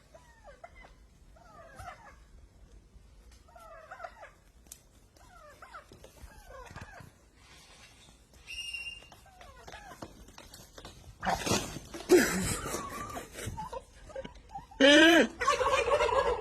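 A series of short animal calls, bending in pitch, about once every second or two. They are followed by two louder, harsher stretches of calling near the end.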